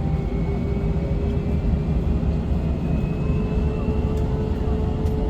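Airliner engines running as heard inside the passenger cabin before takeoff: a steady low rumble with a faint whine that slowly rises in pitch.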